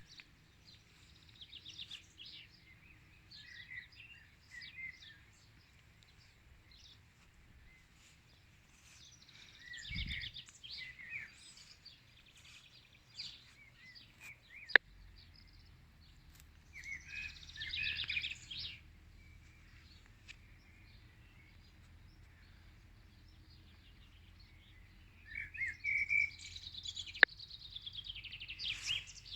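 Several songbirds singing in bursts of quick chirps and trilled phrases, with pauses between them. Two sharp clicks cut in, one about halfway through and one near the end, and are the loudest sounds.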